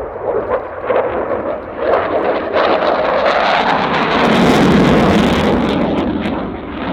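Dassault Rafale C fighter's twin Snecma M88 turbofans running loud, the jet noise swelling to a peak about four and a half seconds in, then easing off slightly near the end.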